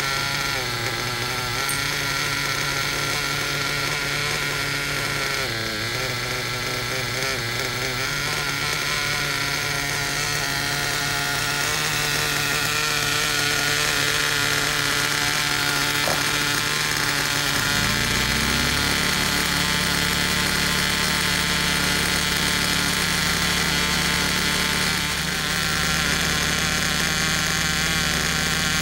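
Werks B5 two-stroke nitro RC engine running during its break-in, first tank, with a steady buzzing note. About two-thirds of the way through, the note steps up briefly and then holds steady again.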